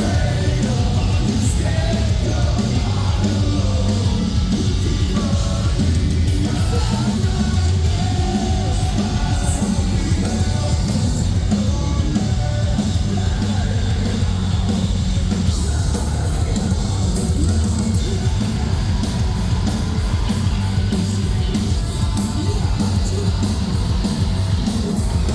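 A metalcore band playing live: loud distorted guitars, bass and drums, with sung and screamed vocals.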